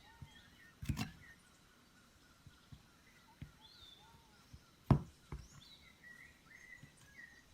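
Birds chirping and calling with short curved notes throughout, over a few sharp knocks, with a cluster about a second in and the loudest single knock about five seconds in.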